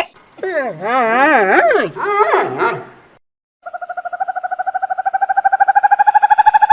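Animal calls: a wavering pitched call whose pitch wobbles up and down for over two seconds, then after a brief silence a long, fast-pulsing trill that rises slightly in pitch.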